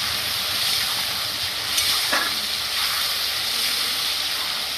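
Onion, garlic, ginger, green chilli and tomato paste sizzling steadily in hot oil in a pan, with a couple of faint spatula strokes about two seconds in as the masala is stirred and fried.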